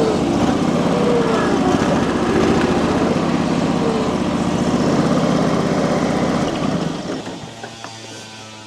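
John Deere 445 garden tractor engine running hard under load as it drags a heavier compact tractor with frozen wheels. Its pitch wavers up and down, and the sound falls away about seven seconds in.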